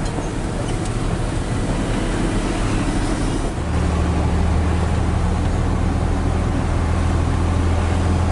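Hino 500 FM320TI truck's diesel engine and road noise heard inside the cab while driving. About three and a half seconds in, the engine settles into a steady, slightly louder low drone.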